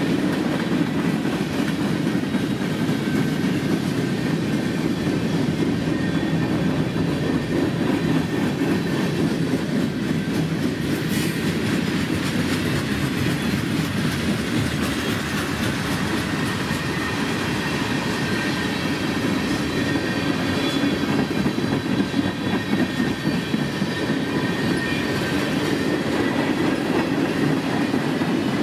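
Freight train cars rolling past: a steady rumble of steel wheels on the rails, with one brief sharp click about eleven seconds in.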